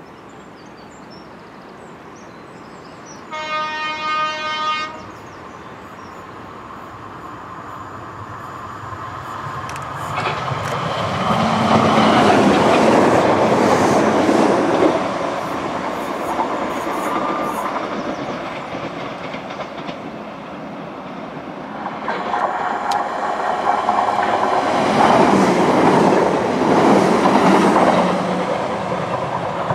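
Class 313 electric multiple unit giving one short horn blast about three seconds in, then passing close by twice with a loud rumble of wheels on the rails that swells and fades each time.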